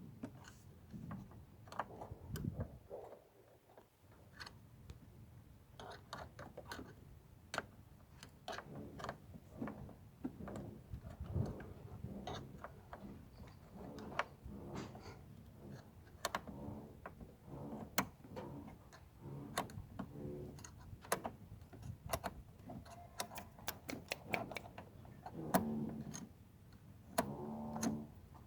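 Irregular clicks, taps and light knocks of hand tools and small parts being handled, with a few short muffled tones near the end.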